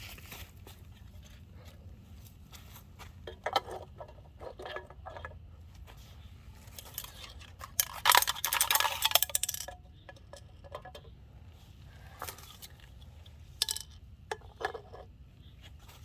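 Empty aluminium cans being handled and set up, giving light metallic clinks and rattles, with a denser stretch of clattering about eight seconds in.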